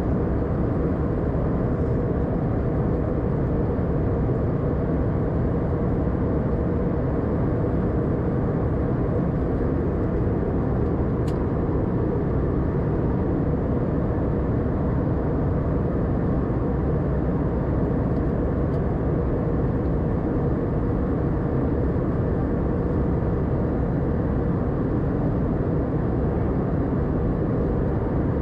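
Steady cabin roar inside an Airbus A320-200 airliner in flight, from airflow and engines, deep and unchanging.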